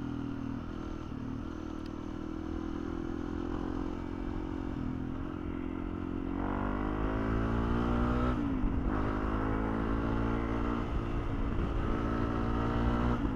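Honda CRF300L single-cylinder motorcycle engine running on the move at a steady pitch, then accelerating about halfway through with a rising note, shifting up a gear a couple of seconds later with a brief dip, and pulling up in pitch again.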